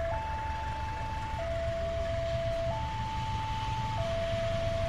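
Railway level-crossing warning alarm sounding, two electronic tones alternating high and low, each held about a second and a quarter. A steady low rumble of waiting road traffic runs underneath.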